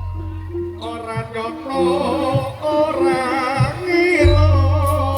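Jaranan accompaniment music: a singer's voice with a wide vibrato comes in about a second in, over a repeating instrumental note pattern and a deep sustained bass.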